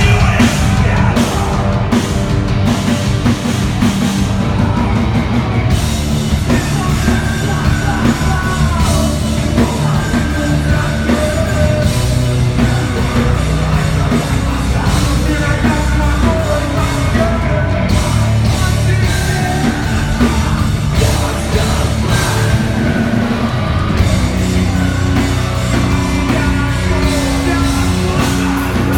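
A heavy rock band playing live, with drums and singing over a dense, loud mix.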